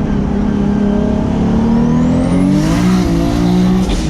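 Turbocharged 2JZ-GTE straight-six of a 900 hp Lexus SC300 pulling hard under acceleration, the engine note climbing steadily in pitch and then dropping about three seconds in, as at a gear change, with a faint rising high whistle over it.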